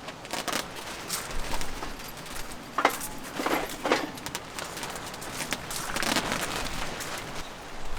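Irregular knocks, clicks and rustling of camping gear being handled at the car, with wind rumbling on the microphone.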